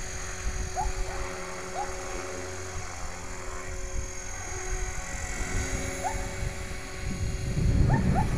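Electric HK 450GT radio-controlled helicopter in flight, its motor and rotor giving a steady whine of a few held tones. Wind buffets the microphone with a low rumble that grows louder near the end.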